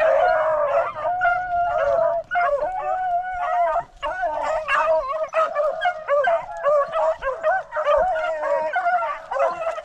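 A pack of rabbit-hunting beagles baying together, many overlapping howling bays with no break. They are in full cry on a freshly jumped rabbit.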